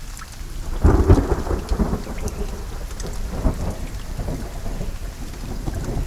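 Steady rain with scattered drops, and a roll of thunder rumbling in about a second in, peaking again midway and fading.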